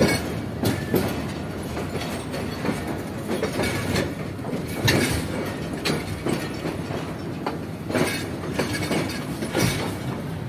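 Train running along the track: a steady rumble of the carriage with repeated sharp clacks of the wheels over rail joints, coming at uneven intervals.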